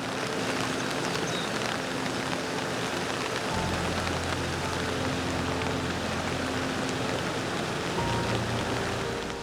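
Heavy rain falling in a downpour: a dense, steady hiss of drops hitting the ground and surroundings.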